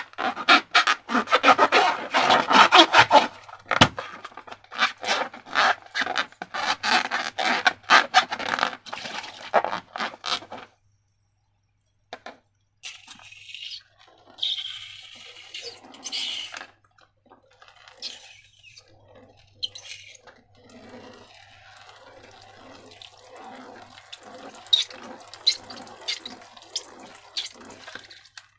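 Wet, sticky slime squelching and crackling as it is worked by hand. There are about ten seconds of dense clicking, a short silent break, then softer, sparser squelches.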